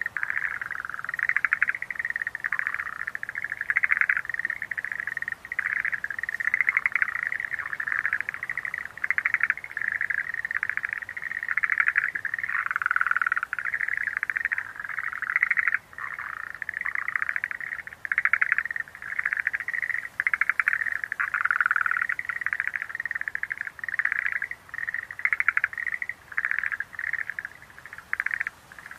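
Schlegel's green tree frogs calling in chorus: overlapping rapid pulsed trills, one after another without a break, with louder calls every couple of seconds.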